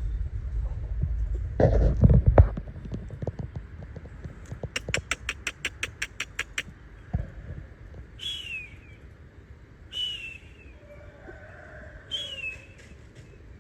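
A bird calling with short whistled chirps that fall in pitch, about one every two seconds through the second half. Before that come a loud low noisy burst about two seconds in and a quick run of about a dozen sharp clicks.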